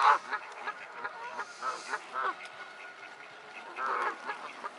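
A flock of waterfowl calling, many short calls overlapping, loudest at the start and again about four seconds in.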